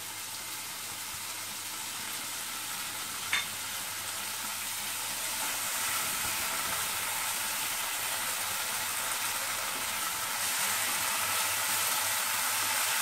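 Onion, tomato and a freshly added ground spice paste sizzling in hot oil in a non-stick kadai while being stirred with a spatula. The sizzle grows a little louder toward the end, and there is one short knock about three seconds in.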